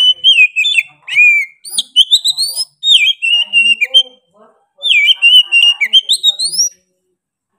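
Oriental magpie-robin (kacer) singing hard: loud whistled phrases with sharp rising and falling slides, coming in bursts with short pauses between them, then a pause near the end.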